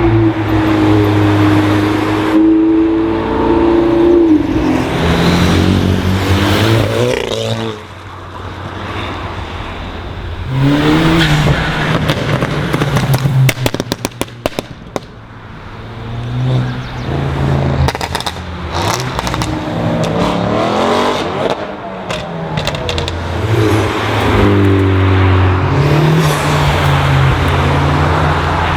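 Several performance cars accelerating past in turn, their engines revving up and falling away. A rapid run of exhaust pops and crackles comes about halfway through, with a few more shortly after.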